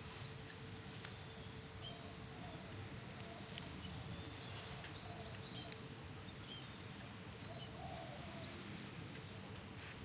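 Weaver birds calling in a tree: scattered short high chirps, a quick run of four upswept notes about halfway through, and another near the end.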